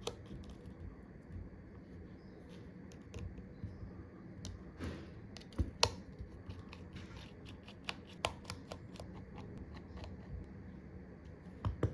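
Small hand tools working screws out of an iPhone XR's internals: irregular light clicks and ticks of a precision screwdriver and tweezers on the phone's metal parts, with a few sharper clicks.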